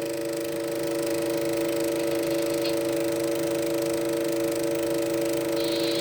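A steady chord of three held tones from the film's soundtrack, played back through a Super 8 sound projector, with faint tape hiss beneath.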